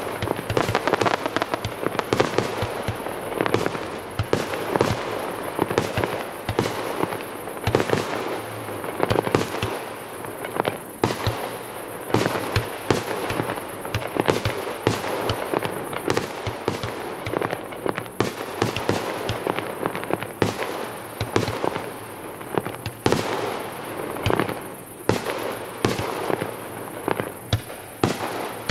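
Fireworks display: a dense, continuous barrage of shell bursts and crackling, many irregular bangs every second.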